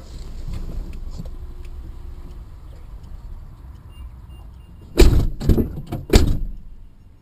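Steady low road rumble from a moving car, then about five seconds in a quick run of four loud bangs: a car collision.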